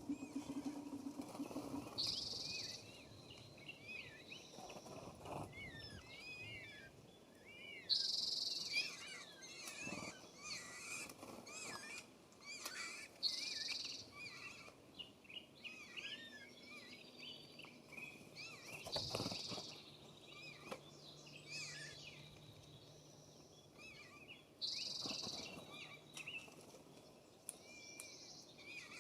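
Several wild songbirds chirping and warbling together, with a louder buzzy call that comes back about every five or six seconds.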